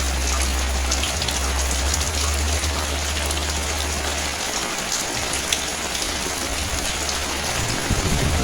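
Steady rain falling on hard surfaces, an even hiss dotted with many small drop ticks. A low rumble underneath stops about halfway through.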